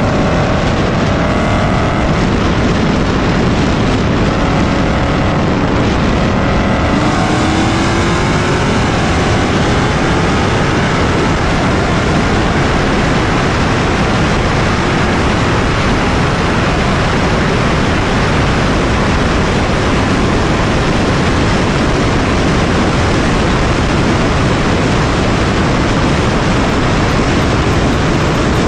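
A car driving at speed: the engine pulls up through the revs for the first seven seconds or so, then heavy, steady wind and road noise carries on.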